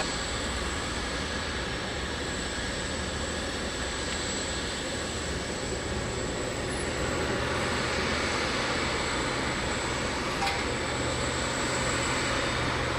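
Airport jet aircraft engines running steadily, with a thin high-pitched whine held throughout.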